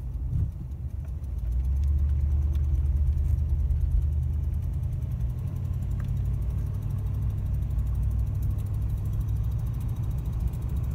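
1974 Buick Electra Limited's 455 V8 heard from inside the cabin as the car pulls away: a low engine rumble that grows louder about a second and a half in, then runs steadily as it cruises. A slight exhaust manifold tick runs under it, which the owner calls the car's only real complaint.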